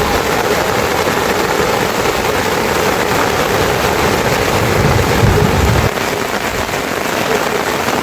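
Steady rain falling, a dense even hiss, with a low rumble for about a second near the middle.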